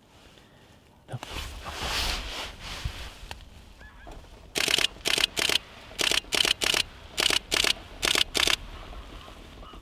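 Geese honking, about ten short loud honks in a rapid run through the middle of the clip, after a rushing noise a second or so in.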